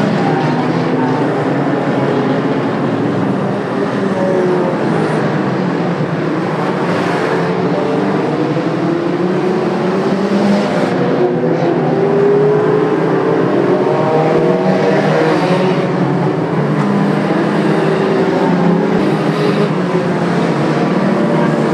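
Several racing car engines running together on the track, their notes rising and falling as the cars accelerate and lift off through the laps.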